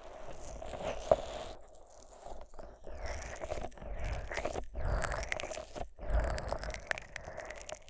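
Fingers thick with Vaseline rubbing and squishing over the silicone ears of a 3Dio binaural microphone, giving sticky, crackly rubbing strokes in an irregular rhythm with short pauses and a sharp click about a second in.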